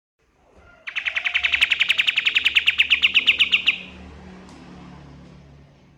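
White-shouldered triller (kapas tembak) singing one fast trill of evenly repeated high notes, about ten a second, lasting nearly three seconds. It starts about a second in and stops sharply, leaving only faint background noise.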